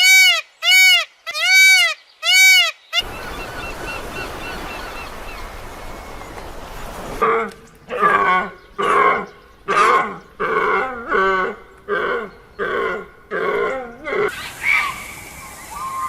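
Animal calls in three runs. First come several short, clear calls that each rise and fall in pitch. Next is a few seconds of hiss. Then comes a rhythmic series of about ten rough, grunting calls, a little under a second apart.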